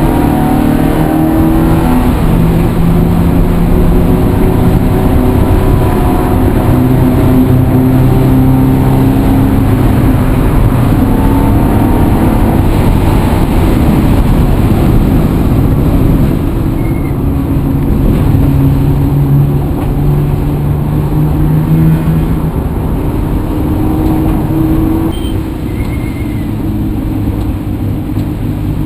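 Vehicle engine running under load. Its pitch climbs and drops several times as it accelerates and changes gear, over a steady low rumble.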